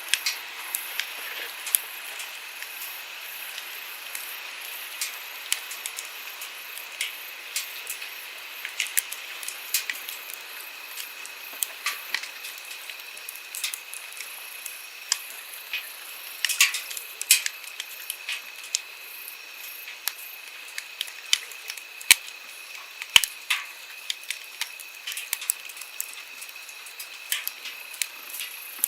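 Wood campfire crackling, with irregular sharp pops and snaps, a few louder ones past the middle. Under it runs the steady rush of a flowing stream.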